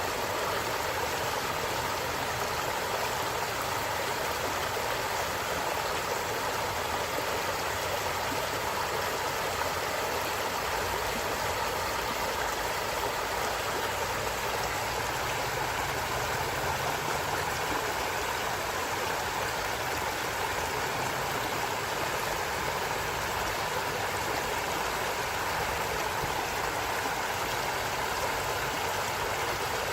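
A stream of running water, a steady, even rushing and gurgling.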